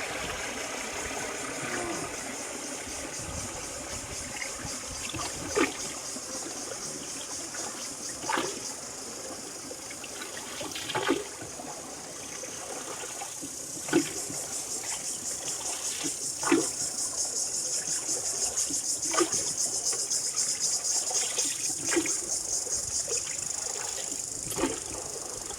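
Water trickling and splashing against a small wooden boat, with a short splash about every two to three seconds, like paddle strokes. Over it runs a steady high hiss that grows louder in the second half.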